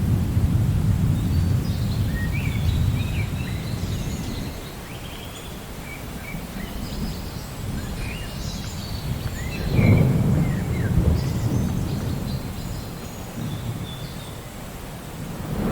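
Thunder rumbling over steady rain: the rumble fades a few seconds in, rolls up again about ten seconds in and swells once more near the end. Birds chirp now and then.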